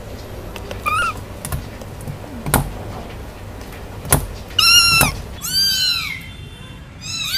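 Kittens mewing: one short mew about a second in, then a run of high mews in the second half, each rising and falling in pitch. Two sharp knocks sound between them.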